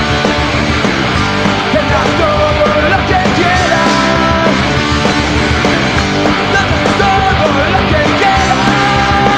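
Punk rock band playing live, loud and steady: full band music with no pause.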